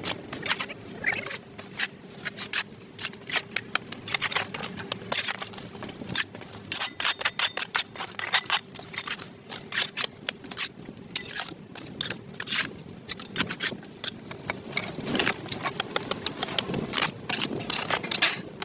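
Rapid, irregular scraping strokes of a tool scraping dirt off a sidewalk surface, over a faint steady hum.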